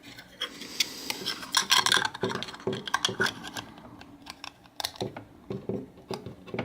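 Plastic battery cover of a Uniden Bearcat BC125AT handheld scanner being worked and slid back onto the radio: irregular scraping and rubbing with many small plastic clicks and snaps, a stiff fit that goes on a little harder than usual.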